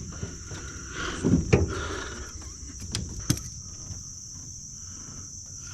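Steady high-pitched chirring of crickets or similar insects, with a few sharp clicks and knocks about a second and a half in and again around three seconds.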